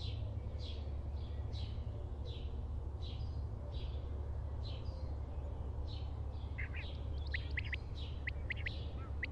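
Birds calling repeatedly, about two short descending chirps a second, with quick sharp notes from a second bird joining about two-thirds of the way through, over a steady low hum.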